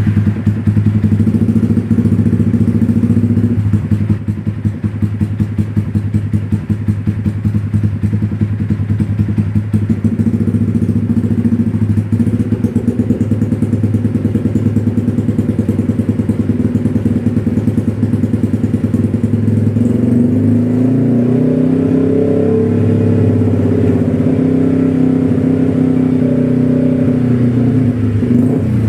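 Motorcycle engine idling through an X1 Speed Pro One aftermarket racing exhaust, with an even, fast exhaust pulse. About twenty seconds in, the revs rise a little and hold higher and less steady.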